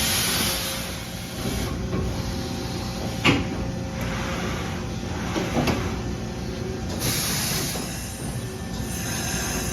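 Okuma MULTUS U4000 multitasking CNC lathe running: a steady machine hum with hissing that swells and fades several times, and two sharp clunks, about three seconds in and again past the middle.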